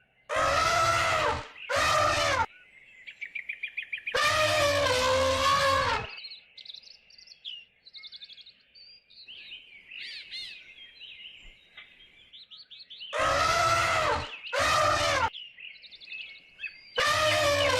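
Repeated loud, drawn-out animal calls, each falling in pitch, in three pairs or groups. Small birds chirp quickly between them.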